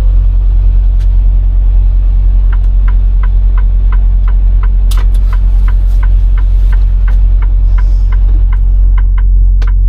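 Semi truck's diesel engine idling with a steady low rumble. A light, even ticking, about two to three ticks a second, starts a couple of seconds in and runs over it.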